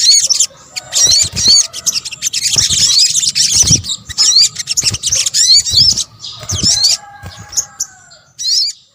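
Sunbird (sogok ontong) song: rapid high-pitched chirps and twittering notes in quick runs, with some dull low thumps underneath. It stops just before the end.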